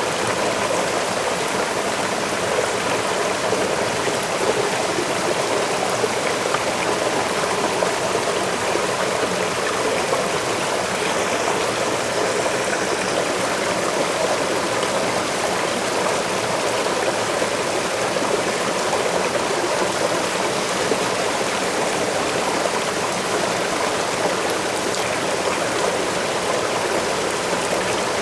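Waterfall running steadily, a continuous even rush of falling and splashing water.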